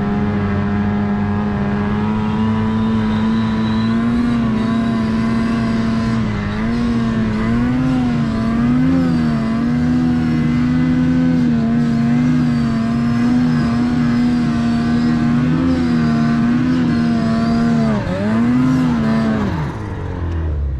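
850 turbo two-stroke snowmobile engine running hard under load, towing a dead sled up a pitch. The revs hold high and steady with small dips and rises, then drop and swing up once near the end before easing off.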